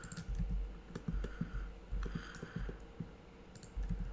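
Scattered clicks of a computer mouse and keyboard, irregular and fairly soft, with a few dull low thumps among them.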